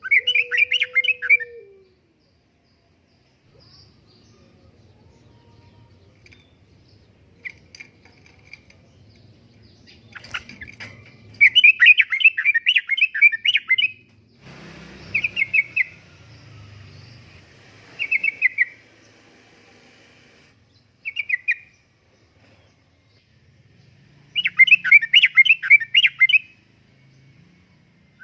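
Yellow-vented bulbul (trucukan) singing its loud, bubbly, chattering phrases. Each burst of rapid notes lasts about one to two seconds and is repeated several times with pauses between.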